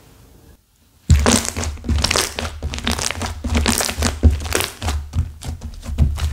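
Slime with hardened clay mixed through it, squeezed and pressed by hand, giving a dense run of crunching and crackling that starts about a second in.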